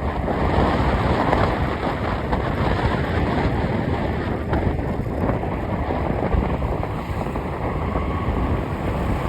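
Steady wind rushing over the microphone together with the rumble of a moving vehicle.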